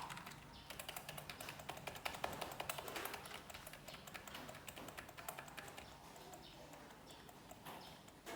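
Typing on a computer keyboard: a fast run of key clicks that thins out in the second half.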